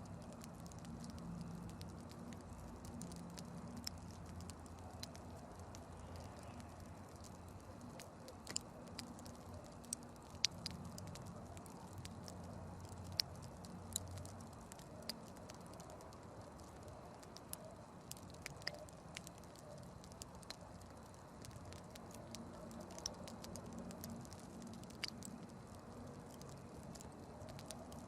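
Campfire burning quietly, with a steady low hiss and scattered sharp crackles and pops at irregular intervals.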